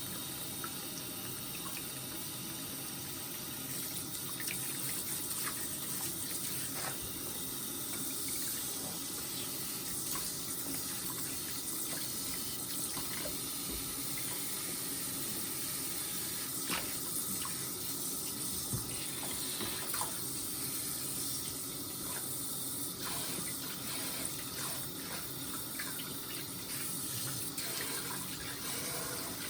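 Running water pouring steadily, with occasional small splashes and knocks.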